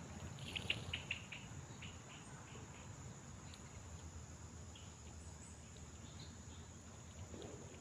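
Small wild animal chirping: a quick run of short, high chirps about half a second in, then fainter scattered chirps, over a steady faint high hiss.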